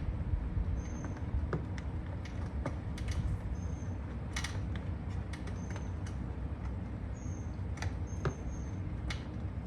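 Scattered light clicks and creaks of plastic parts being handled and pressed as a USB charger port is worked into a hole in a golf cart's plastic dash.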